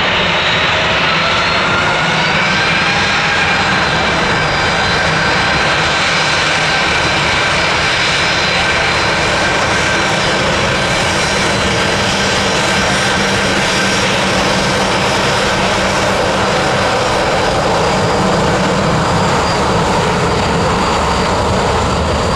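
Jet airliner engines running loud and steady, with a whine that rises over the first few seconds and then holds.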